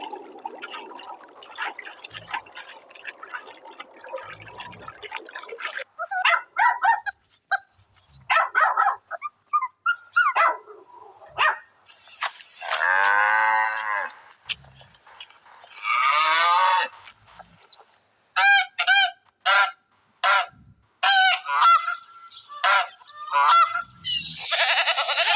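Domestic fowl calling: a run of separate honking and cackling calls, with a dense chatter of many birds at first.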